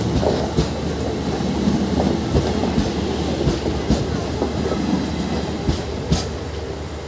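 Indian Railways passenger coaches running on the track, heard from an open coach door: a steady rumble with irregular clacks of wheels over rail joints, while another train's coaches pass close on the next track. The sound eases gradually over the last few seconds as the passing train clears.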